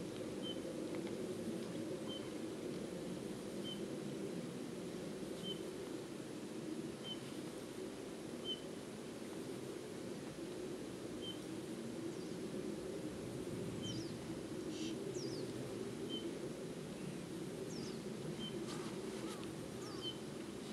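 Outdoor ambience: a steady low rumble, with a short high chirp repeating about every second and a half and a few brief falling whistled calls in the second half.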